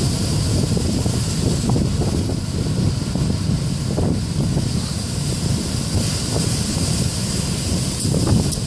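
Strong wind buffeting the microphone in a steady low rumble, with heavy surf behind it.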